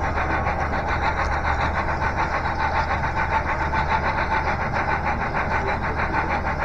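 Model Norfolk & Western 475 steam locomotive running along the layout track, with a steady rhythmic beat several times a second over a constant low hum.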